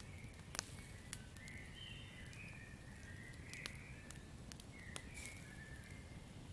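Campfire crackling, with a low steady rumble and scattered sharp pops, the loudest about half a second in. Short high chirps from the night-forest ambience come and go over the fire, several in a row through the middle.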